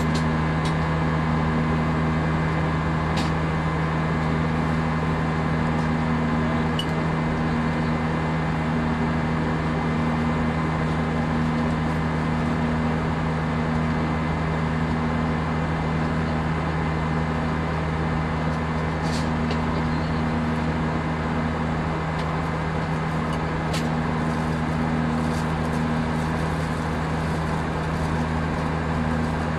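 Steady cabin noise of an Airbus A319 in flight: a constant rush of airflow with a low, even engine drone. A few faint ticks sound now and then.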